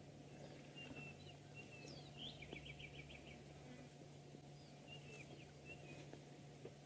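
Near silence with faint bird calls: scattered short chirps and whistles, and a quick trill of about seven notes near the middle.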